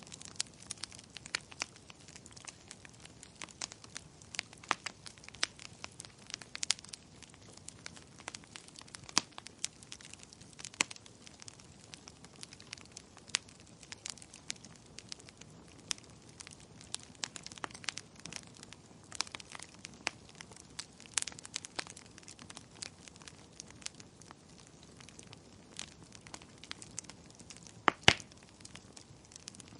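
Wood fire crackling, with irregular sharp pops and snaps over a soft hiss and a couple of louder pops near the end.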